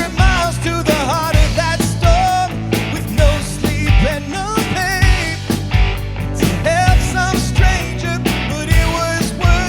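Rock band playing a song: a singing voice over band accompaniment, with a steady drum beat.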